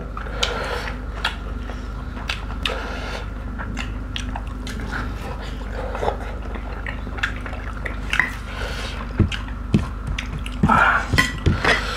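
Close-up eating sounds: wet chewing and lip smacks from people eating pork curry and rice by hand, with many short sharp mouth clicks and a few louder mouth sounds near the end.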